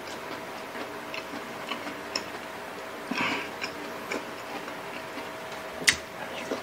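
Close-up eating sounds from a mouth working on pieces of pork adobo: scattered small wet clicks and smacks of chewing. A sharper smack comes just before six seconds in, as a piece goes into the mouth.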